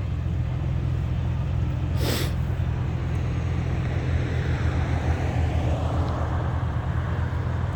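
Porsche 996 Carrera 2's water-cooled flat-six idling steadily at its normal idle, the cold-start fast idle having already cycled down. A brief hiss about two seconds in.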